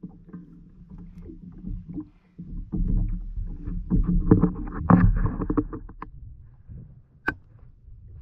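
Knocks, thumps and rubbing against a kayak's hull as things are handled on board. They are busiest in the middle, and there is one sharp click about seven seconds in.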